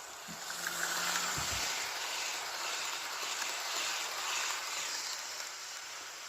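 Hornby OO gauge model train, the LNER P2 'Cock of the North' hauling a long rake of coaches, running along the track past the microphone. Its running noise swells about half a second in and fades gradually toward the end.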